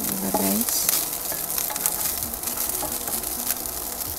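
Fried rice with diced luncheon meat and vegetables sizzling in a nonstick wok, with a wooden spatula stirring and scraping it in irregular strokes.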